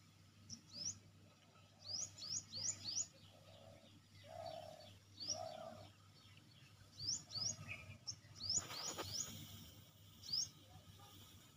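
Small birds chirping outdoors: short, high, down-sweeping chirps in quick runs of two to four, with a couple of short low notes around the middle and a brief burst of noise about two-thirds through.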